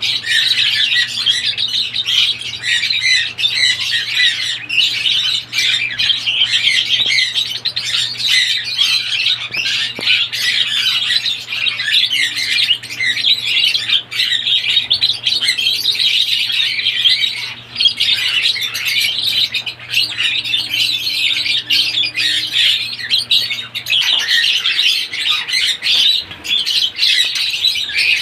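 Pet lovebirds chattering and squawking, a dense, unbroken stream of shrill chirps. A faint low steady hum runs underneath and stops near the end.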